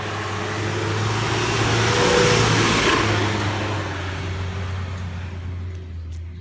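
A car passing close by, its engine running with a steady low hum over tyre and engine noise; it is loudest about two seconds in, then fades away.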